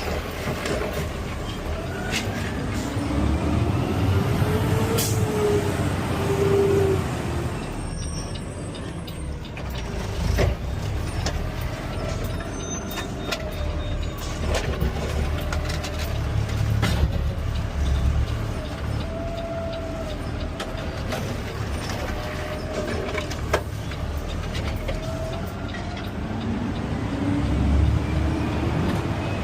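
Peterbilt 520 CNG garbage truck running as it drives, its engine pitch rising as it speeds up a few seconds in and again near the end, with a steady low rumble and a few knocks from the truck body.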